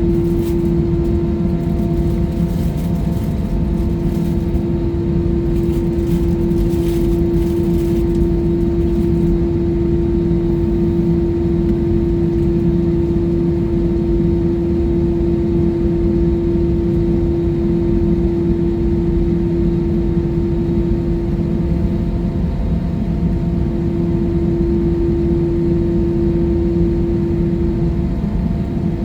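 Jet airliner cabin noise: a steady rush and low rumble of the engines and airflow, with a constant hum running under it.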